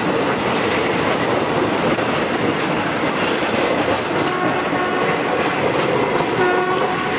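Passenger coaches rolling past on the track and moving away, a steady rumbling clatter of wheels on rails.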